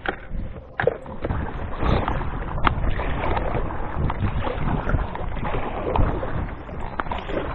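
Water splashing and sloshing around a canoe, with a few sharp knocks.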